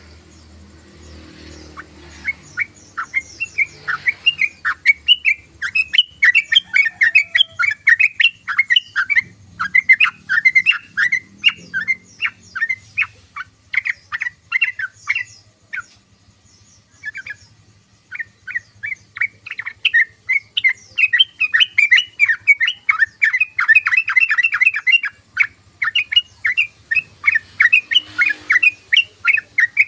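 Sooty-headed bulbul (trucukan) chattering in rapid runs of short notes. The runs break off for a moment about halfway through, then start again.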